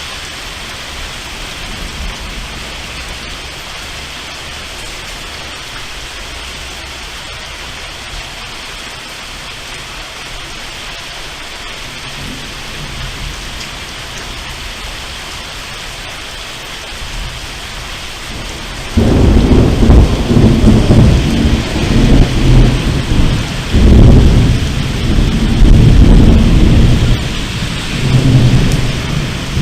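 Steady heavy rain, then about two thirds of the way through a loud crack of thunder that breaks into a deep rumble, rolling on in several surges.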